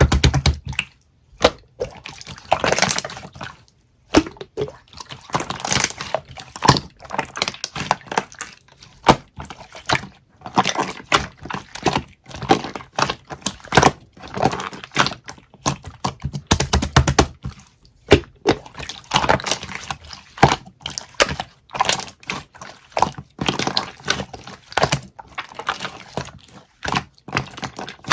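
Slime being squished and stretched by hand: a steady run of sticky, wet clicks and crackling pops, with denser crackly stretches every few seconds.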